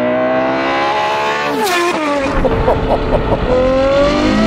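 Ferrari 812 GTS's 6.5-litre naturally aspirated V12, through a Novitec exhaust, revving up under hard acceleration. About a second and a half in, an upshift drops the pitch with a sharp crack, described as like a gunshot, and the engine then climbs again in the next gear.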